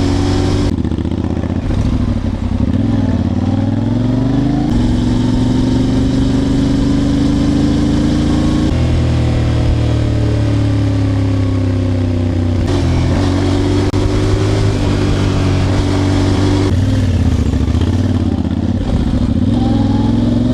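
Yamaha Ténéré 700's 689 cc parallel-twin engine running under way, its note rising and falling with the throttle. The engine sound changes abruptly about every four seconds.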